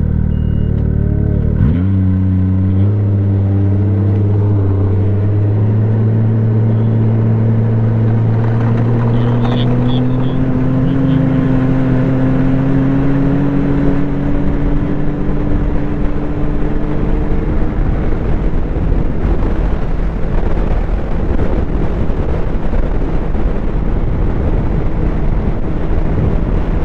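Snowmobile engine under way: the engine note dips then picks up again about two seconds in, then climbs slowly and steadily in pitch as the sled gathers speed. In the last third the engine tone fades into a loud, even rush of wind and track noise.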